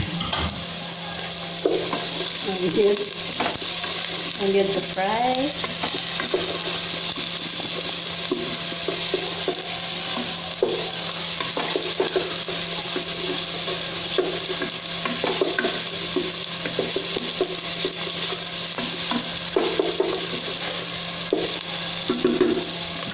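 Chopped garlic, onion and ginger sizzling in hot oil in a stainless steel pot, with a spoon scraping and knocking against the pot now and then as it is stirred.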